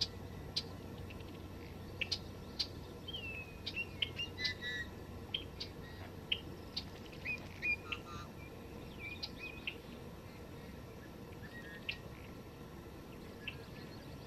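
Wild birds calling: many short, high chirps and a few brief whistled notes, scattered irregularly, over a steady low background hiss.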